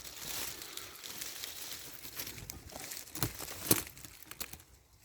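Hedge twigs and leaves rustling and crackling as they are pushed aside, with two sharper snaps a little over three seconds in.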